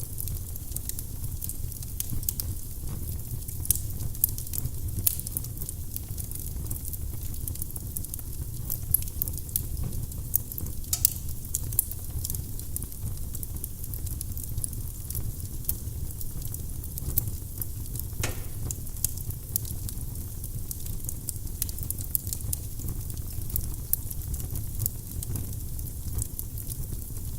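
Firewood burning in a fireplace: a steady low rumble of the flames with frequent sharp crackles and pops from the burning logs.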